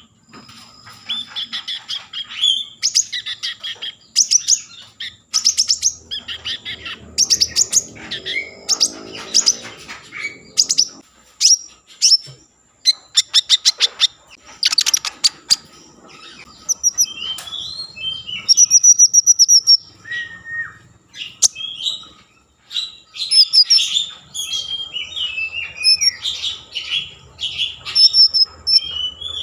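Konin songbird singing vigorously: a rapid, varied run of chirps, trills and whistled phrases with short pauses, including a longer held high note past the middle. This is the excited full song that is played to lure other konin into singing.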